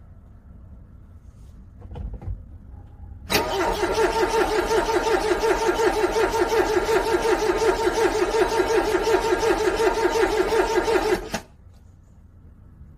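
A car's starter cranking a cold engine in an even, pulsing rhythm for about eight seconds. It stops suddenly without the engine catching. A dull thump comes about a second before the cranking starts.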